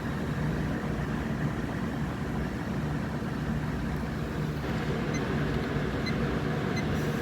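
Vintage Lakewood box fan with a McMillan square-stator motor running on high speed: a steady low motor hum under the even rush of air from the blades.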